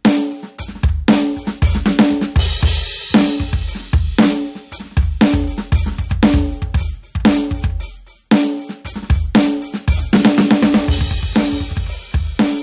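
Roland TD-17KVX electronic drum kit being played, its module's drum sounds heard direct through a mixer rather than from the rubber pads: bass drum, snare and tom fills with cymbal crashes and hi-hat, broken by a few short pauses between phrases.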